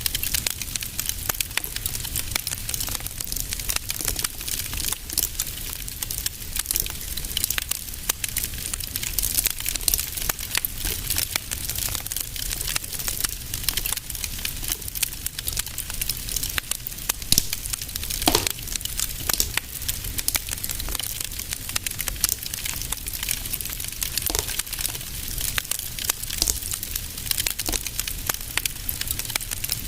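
Wood fire crackling steadily in a fireplace, with dense small crackles over a low rumble and an occasional louder pop, one about 18 seconds in.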